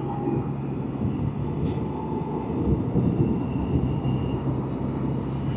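Can-Am Spyder three-wheeler's engine running steadily while riding, with road and wind noise.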